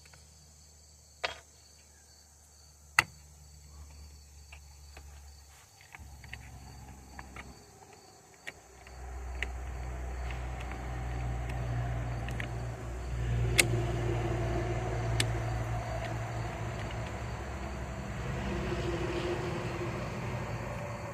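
A few sharp clicks and taps from handling small parts and tools. About eight seconds in, a steady low motor or engine hum builds up and runs on.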